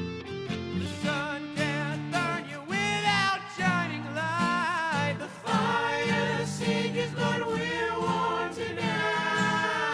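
Wordless singing: a voice holding and bending long notes, starting about a second in, over guitar accompaniment in a song demo.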